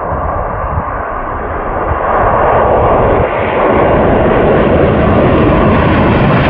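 Boeing 767 freighter's jet engines at takeoff power, growing louder over the first few seconds and reaching a higher hiss as the aircraft comes closer.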